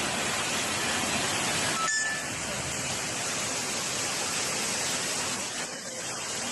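Steady rushing of water, with an abrupt cut about two seconds in.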